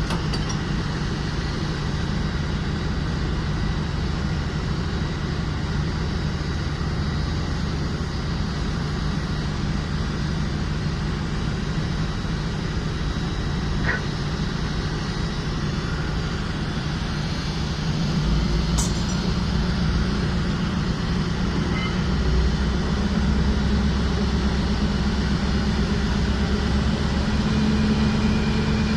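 Ship's heavy diesel engines running with a steady low drone, with a deeper layer joining about two-thirds of the way in as the level rises a little.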